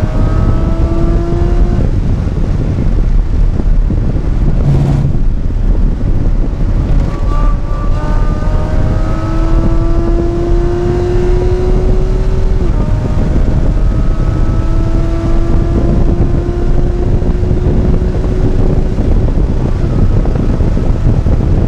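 Porsche 981 Cayman's mid-mounted flat-six heard from inside the cabin under hard acceleration, rising in pitch and dropping back at each upshift, about two, thirteen and nineteen seconds in, over heavy road and wind noise. A short burst of noise about five seconds in.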